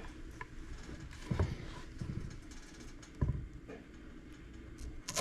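Kitchen knife cutting a white onion into large pieces on a cutting board: a few scattered, unhurried knocks of the blade against the board.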